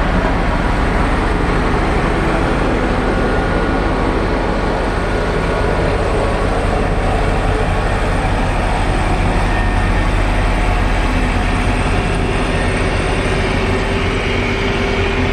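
Heavy diesel engine of a motor grader running steadily, with a constant deep rumble and noise from the working machine.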